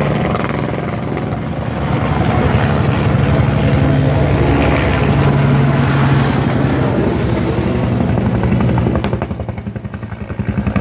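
Firefighting helicopter flying close by, its rotor blades beating in a fast, steady chop. The sound dips briefly near the end and then comes back up.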